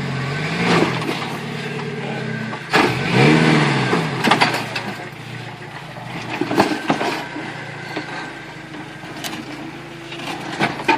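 Jeep Wrangler engine running at low speed off-road, briefly revved up and back down twice. A few scattered knocks and clunks follow.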